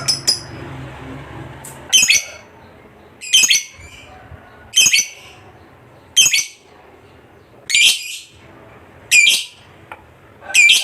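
Lovebird giving short, shrill calls, seven of them spaced about a second and a half apart.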